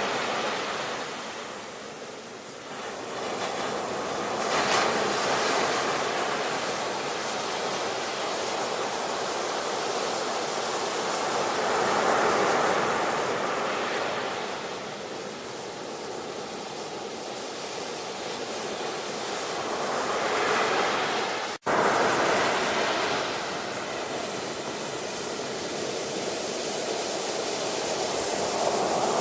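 Ocean surf: waves breaking and washing ashore, the noise swelling and ebbing in surges every several seconds. The sound drops out for a split second about two-thirds of the way through.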